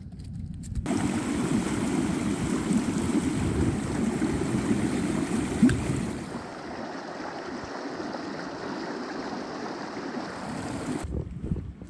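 Steady rush of flowing creek water, starting suddenly about a second in, dropping in level about halfway through and cutting off near the end.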